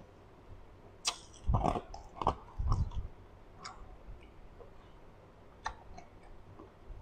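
A person chewing food with the mouth closed: wet mouth sounds with sharp little clicks and smacks, loudest in a short run of bursts between about one and a half and three seconds in.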